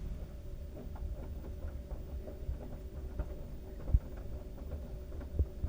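LG washing machine running a load of wet towels: a steady low rumble with a faint steady motor tone, and irregular soft knocks from the tumbling load, with a louder thump about four seconds in and another near the end.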